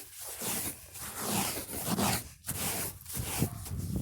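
Footsteps crunching through snow, an irregular run of rough crunches several times a second.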